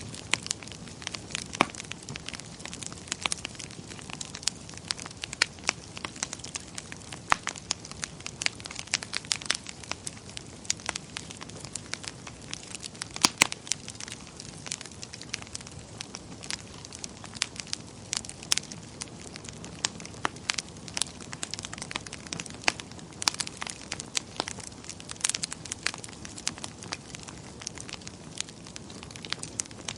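Wood fire crackling in a fireplace: a steady soft hiss with frequent irregular crackles and occasional louder pops.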